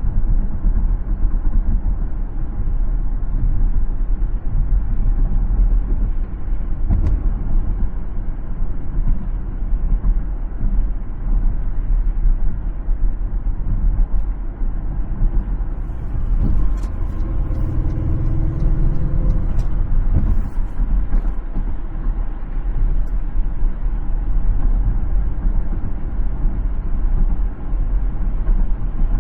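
Steady low road rumble of a car driving along a city road. A little past halfway a droning vehicle sound swells up and fades, with a few light clicks at the same time.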